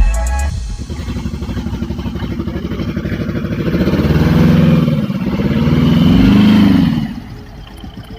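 Small vehicle engine running with a rapid pulsing beat, revved up twice, then dropping back to a quieter idle near the end.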